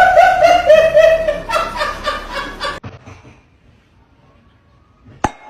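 High-pitched voice sounding in quick wavering pulses for about three seconds, then cut off abruptly. After it comes quiet with a single sharp click near the end.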